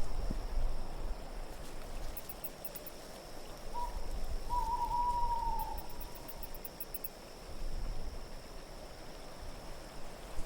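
An owl hooting over a low, steady wind: a short hoot about four seconds in, followed at once by a longer hoot that falls slightly in pitch. Faint high tinkling comes twice.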